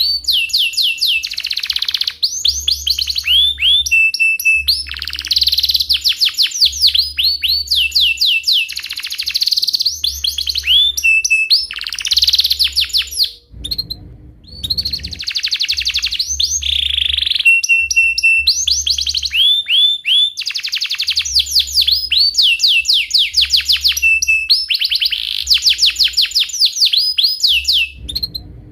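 Domestic canary singing a long, continuous song of rapid rolling trills made of quick, repeated falling whistled notes. There is a short pause about halfway through.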